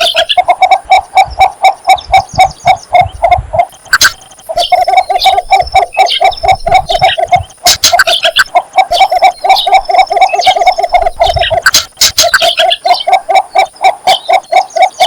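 Cinnamon bittern giving its mate-seeking call: long runs of rapid, short low notes, several a second, broken by brief pauses about every three to four seconds.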